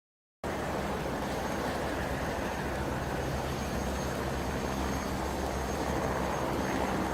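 Steady engine noise from a vehicle: a constant rushing noise over a low hum, starting abruptly after a moment of dead silence.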